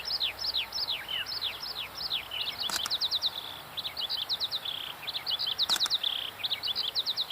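Songbirds singing: quick series of high, downward-sweeping notes, with short rapid trills from about three seconds in.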